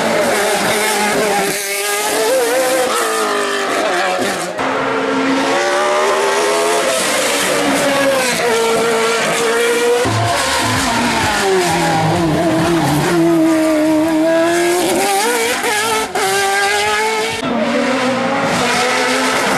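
Hill-climb race car engine at high revs, its pitch climbing and then dropping sharply again and again as it works through gear changes and slows for corners, for about twenty seconds.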